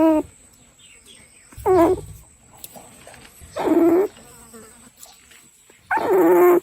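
A dog vocalizing in drawn-out whining cries, four of them about two seconds apart, each bending in pitch.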